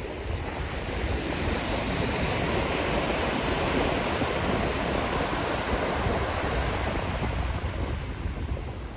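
Sea waves breaking and washing up the shore, one surge building and easing off over several seconds. Wind buffets the microphone with a low rumble.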